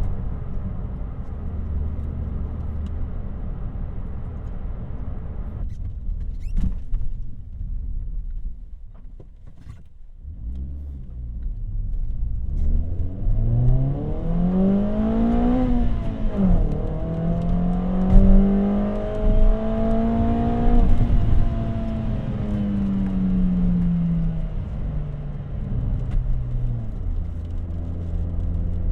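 Car engine and exhaust: a low steady note, then a quieter stretch, then the engine revs up under acceleration, shifts once about halfway through and pulls up again, holds, and eases off back to a low steady note near the end.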